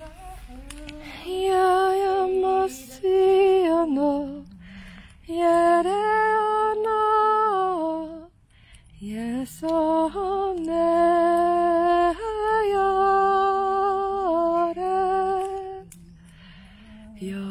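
A woman's voice singing or humming a slow, wordless-sounding melody alone, in held notes grouped into a few phrases with short pauses between them.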